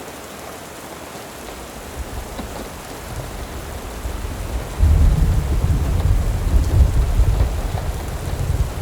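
Steady rain with a deep rumble of thunder that builds about two seconds in, swells suddenly past the middle and keeps rolling.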